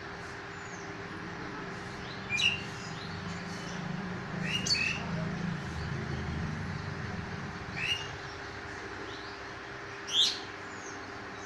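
Birds calling: four loud, short, sharp calls a few seconds apart over a steady hiss. A low rumble swells and fades through the middle.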